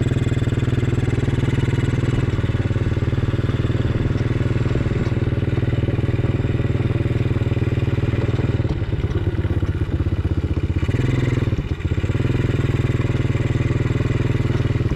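An engine running steadily at a constant speed, with a brief dip in level about twelve seconds in.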